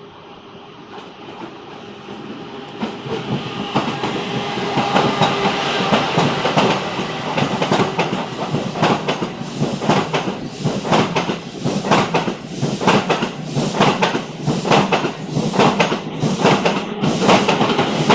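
Renfe Series 106 Talgo Avril train running on the rails, growing louder over the first few seconds. It then settles into a loud, steady run with a regular clickety-clack of wheels over rail joints, about two strikes a second.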